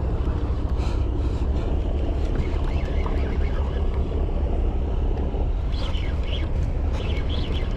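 Steady low rumble of a fishing boat under way: engine noise mixed with wind buffeting the microphone.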